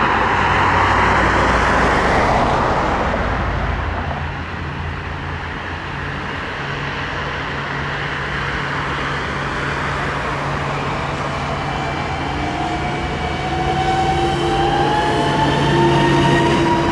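Electric train running at the station with a steady low hum, joined about two-thirds of the way in by a slowly rising electric whine, as the traction motors pick up speed.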